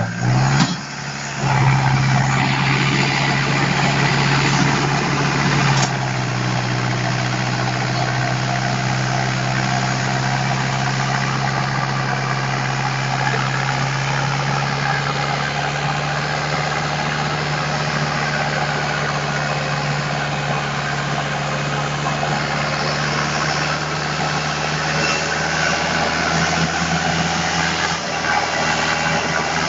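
Force Balwan 550 tractor's diesel engine running steadily, pulling a trailer loaded with about 12 tons of sugarcane. Its level drops a little about six seconds in, then holds even.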